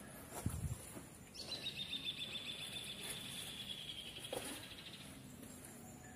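A bird trilling: one long, high, fast-pulsed trill that starts about a second and a half in and slowly falls in pitch over about three and a half seconds. A low thump comes about half a second in.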